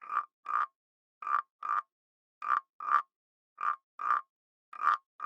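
Short animal calls, each brief and pitched, coming in pairs about half a second apart. Five pairs follow one another evenly with dead silence between them.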